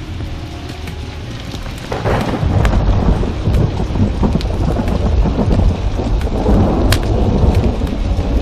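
Steady heavy rain, then about two seconds in a thunderclap breaks and rolls on as a long, deep rumble.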